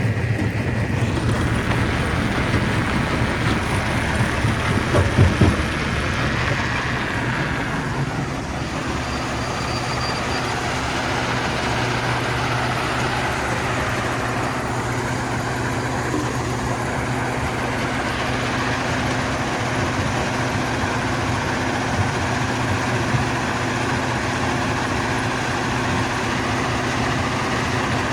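Stone crusher machinery running steadily, a dense mechanical noise over a low, even hum, with a few louder knocks about five seconds in.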